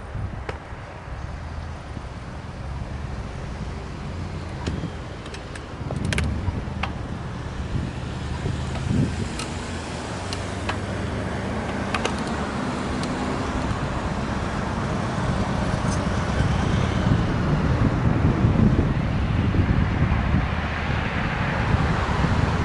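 Road traffic noise with cars going by, growing louder in the second half, and a few sharp clicks along the way.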